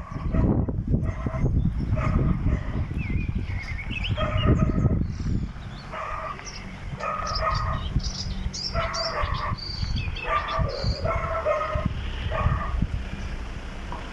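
A dog barking repeatedly, short barks about once a second, with a low rumble under the first few seconds.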